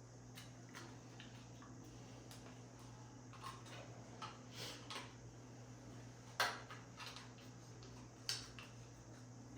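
Small plastic clicks and taps from handling a battery-powered light switch and its snap-off buttons, with two sharper clicks about six and eight seconds in.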